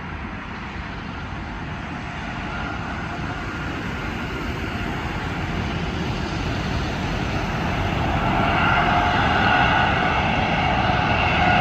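Airbus A380's four jet engines drawing closer, a low rumble growing steadily louder, with a whine of several steady tones coming in about eight seconds in.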